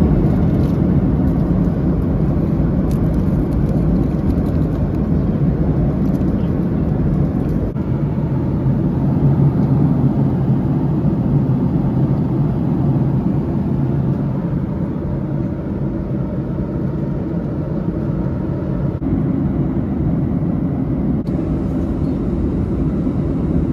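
Steady engine and airflow drone heard inside the cabin of a Boeing 737-800 airliner.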